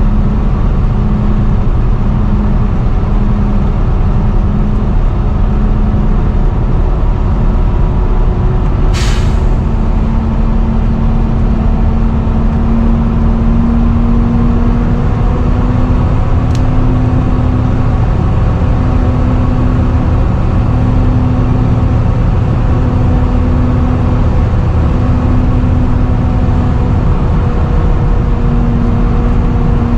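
Volvo B7TL double-decker bus running, with the loud whining drone that bus enthusiasts call a "hoover". The drone's tone pulses about once a second at first, then holds steady. A short air-brake hiss comes about nine seconds in, and a sharp click a little later.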